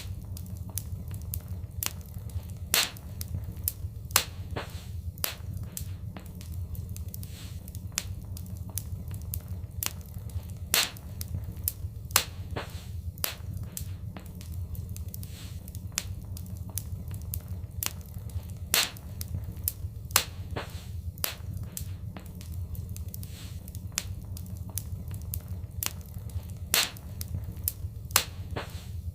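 Wood fire crackling, with irregular sharp pops over a steady low rumble. The louder pops come in a pattern that repeats about every eight seconds, as in a looped recording.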